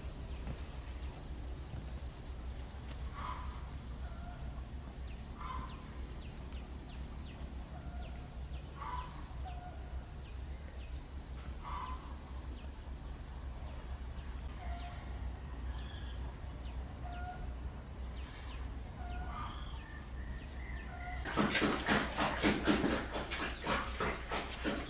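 Outdoor rural ambience: a faint high insect trill and short bird calls repeating every two to three seconds over a steady low hum. About three and a half seconds before the end, a loud burst of rough noise begins.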